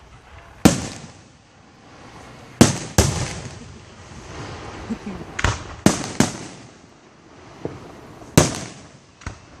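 Fireworks show: a string of aerial shells bursting with sharp, loud bangs at irregular intervals, about eight in all, each with a short fading tail and some crackle between them.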